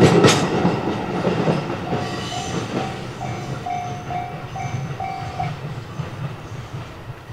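A freight train of red limestone hopper wagons rumbles away after clearing a level crossing, its wheels clacking over the rail joints at first and then fading. From about two seconds in, the level crossing's alarm bell rings a steady repeated tone, two to three strikes a second, and stops about two seconds before the end.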